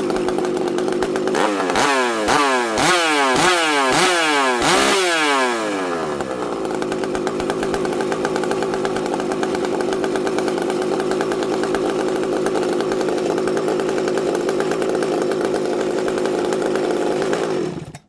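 Ported Husqvarna 394XP two-stroke chainsaw idling, revved up and down five times in quick succession about two seconds in, then idling steadily again. Near the end it is choked to kill it and the engine cuts off abruptly.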